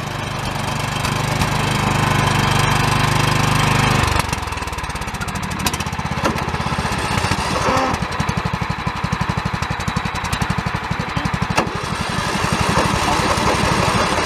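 Riding lawn mower engines running at full throttle. About four seconds in, the steady drone gives way to a rapid, evenly pulsing engine beat.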